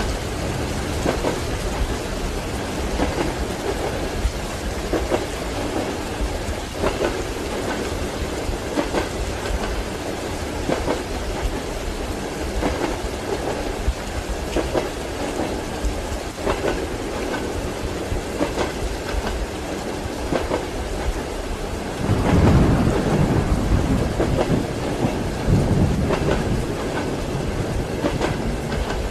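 Steady rain with train wheels clacking at a slow, regular beat over rail joints. About two-thirds of the way through, a low rumble of thunder swells for several seconds.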